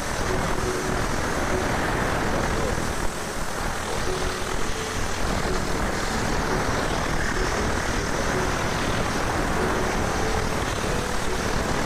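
Steam pressure washer spraying a car engine: a steady rushing hiss of the jet with no break.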